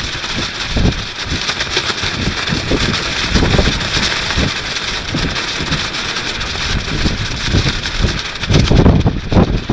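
Strong wind buffeting the microphone in rapid low thumps, with a plastic rainsuit flapping and rustling in the gusts. The buffeting grows heavier near the end.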